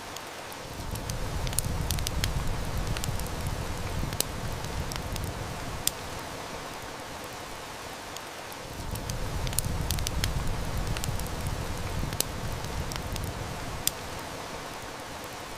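Steady heavy rain with a wood fire crackling in sharp, irregular snaps. A low rumble of distant thunder swells in twice, each time for several seconds.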